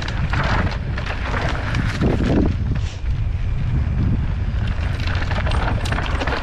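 Mountain bike riding down a dirt trail: wind buffeting the microphone and a steady low rumble from the tyres, under a constant stream of short clicks and rattles from the bike.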